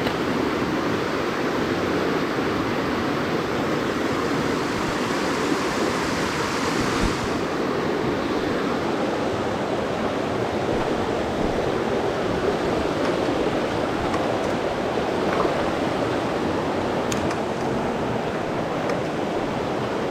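Mountain stream water rushing steadily. About seven seconds in the hiss loses some of its top and sounds a little duller.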